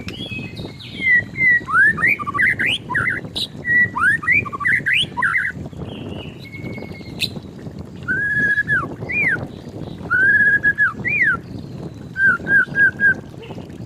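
White-rumped shama singing. It starts with a run of quick sweeping whistles, then gives long clear whistled notes that end in a rising or falling slur, and near the end four short notes in quick succession.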